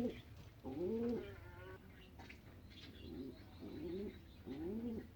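Pigeon cooing: about four separate low coos that rise and fall, each about half a second long, with pauses between. Faint short high chirps sound behind them.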